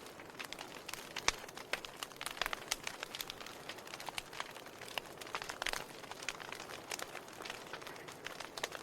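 Burning firewood crackling: irregular sharp pops and snaps over a soft steady hiss of the fire.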